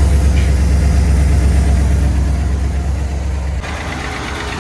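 Mercedes W126 SEC's V8 engine idling steadily with a deep rumble, running again on a newly replaced fuel pump. About three and a half seconds in, the rumble drops abruptly to a lighter, quieter idle.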